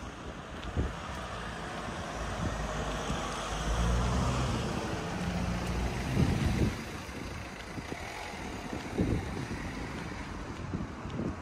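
Outdoor background of wind buffeting the microphone, with low thumps from gusts, over the rumble of a passing motor vehicle that swells to its loudest about four seconds in.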